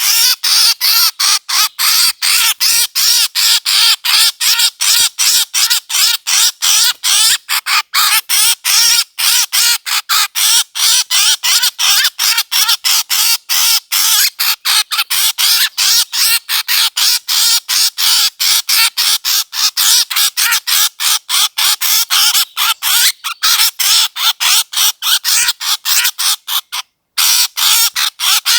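A bird's harsh calls repeated rapidly and without let-up, several notes a second, with one brief break near the end: a recorded bird call of the kind played as a lure for bird hunting.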